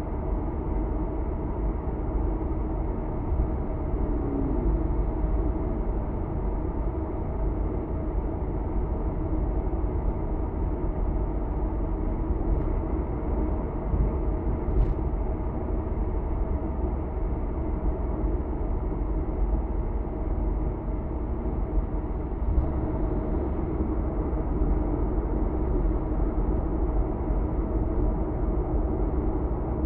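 Steady road and engine noise heard inside a car cruising on an expressway, mostly a low rumble with tyre hiss. A brief click comes about halfway through.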